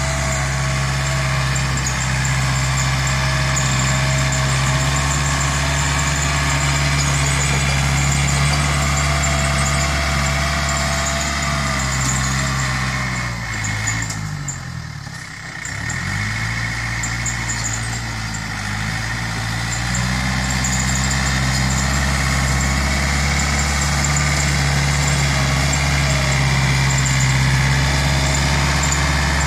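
Yanmar EF 494T tractor's diesel engine running steadily while pushing soil; about halfway through the engine speed sags and then climbs back up.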